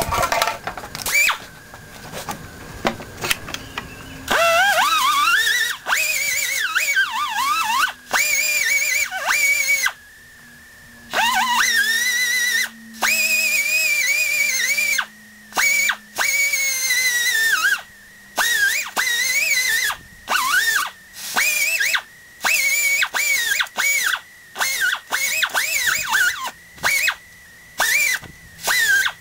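Flux-core wire welder arcing in repeated short bursts, each starting and stopping abruptly with brief pauses between welds. The arc crackles and buzzes with a wavering pitch, over a steady high whine.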